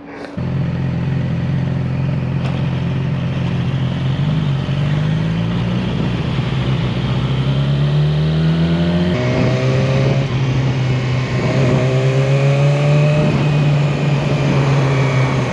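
Yamaha R6 sport bike's inline-four engine running under way, its pitch climbing steadily as it accelerates, dropping back suddenly about nine seconds in, then climbing again.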